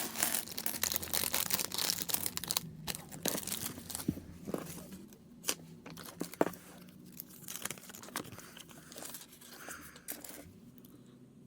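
Crinkling and crackling of plastic packaging and small plastic kit parts being handled, dense at first, then thinning to scattered clicks.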